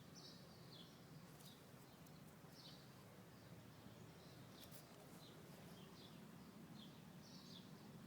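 Domestic guinea pigs giving faint, short, high squeaks that fall slightly in pitch, repeating about once or twice a second, with a few soft clicks between them.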